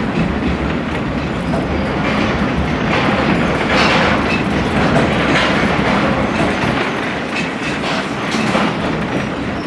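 Passenger coach riding over jointed rail: steady rumble with repeated wheel clicks over the rail joints.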